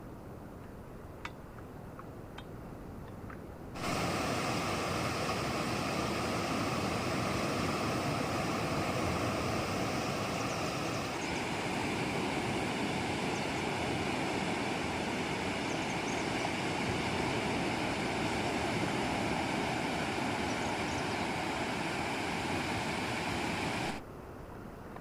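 Steady outdoor rushing noise, like water, that starts abruptly about four seconds in, changes tone partway through and cuts off abruptly about a second before the end. A few faint clicks come before it.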